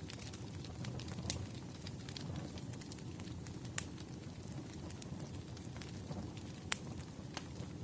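Fire burning in a fireplace: a steady low rush of flames with scattered sharp crackles and pops, the strongest about four seconds in and again near the end.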